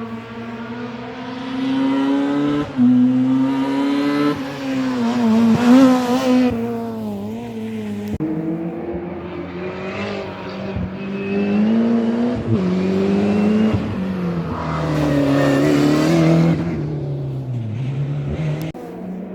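Historic rally car engine at full throttle on a stage, revving up through the gears. The pitch climbs and drops sharply at each shift and lift, several times over, with some tyre noise in the louder stretches.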